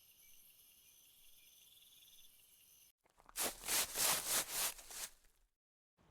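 Jungle insect chorus, a faint high trilling with several steady pitches. About three seconds in it cuts off, followed by a much louder burst of rough noise pulsing about six times over two seconds, then silence.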